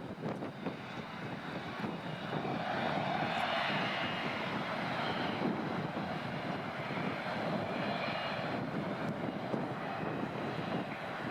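Airliner's engines passing: a steady rushing roar that swells about two seconds in and holds, with a faint high whine over it.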